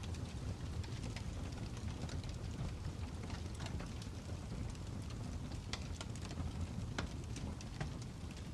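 Fire crackling: a steady low rumble with scattered sharp pops and snaps throughout.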